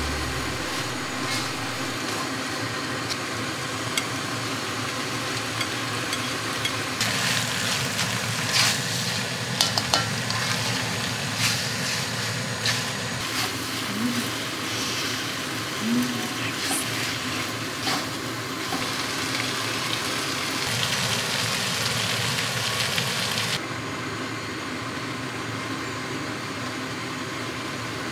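Chicken and tomatoes sizzling as they are stir-fried in a large metal wok on a gas stove, with the spatula scraping and clicking against the pan now and then. The sizzle gets fainter about three-quarters of the way through.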